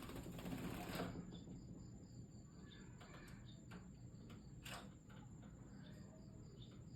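Small aviary birds giving faint, short chirps every second or so, with a few soft clicks among them.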